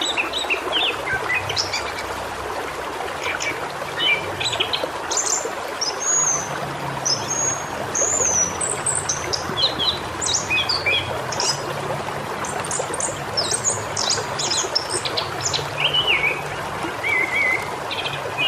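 Many birds chirping and calling, with short quick chirps and whistled glides overlapping throughout, over a steady background hiss.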